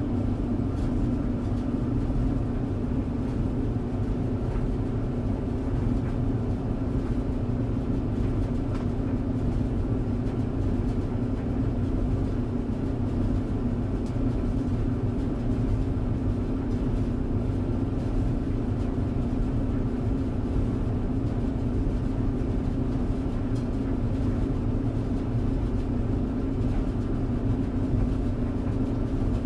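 Clothes dryer running, a steady low hum from the motor and turning drum with no breaks or changes.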